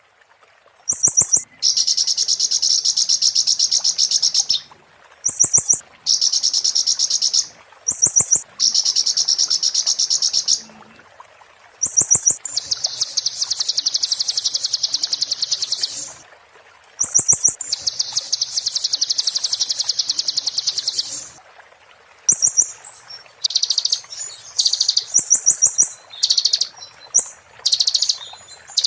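A konin singing its 'muntah beling' song: long, rapid, shrill buzzy trills of two to four seconds each, each opened by a short high note, breaking into shorter, choppier phrases near the end.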